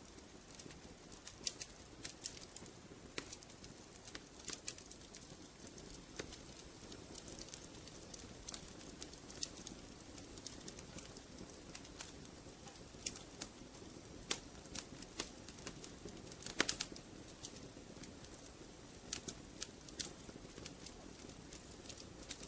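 Wood fire in a fireplace crackling, with irregular sharp pops over a soft, steady hiss.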